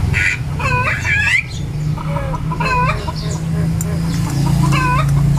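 Chickens clucking: several short, bending calls, a few in quick succession near the start and others spread through the rest, over a steady low hum.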